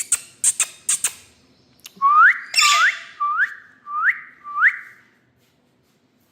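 Indian ringneck parakeet making a quick run of sharp clicks, then five short rising whistles about two-thirds of a second apart, with a harsh rasp over the second whistle.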